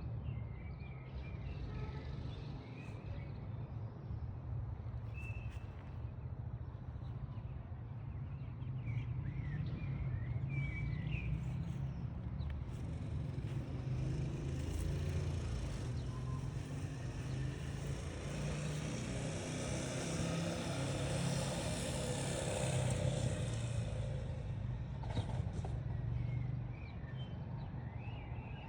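Outdoor ambient noise: a steady low rumble, with a louder rushing sound that swells in the middle and fades away, and a few short high chirps in the first half.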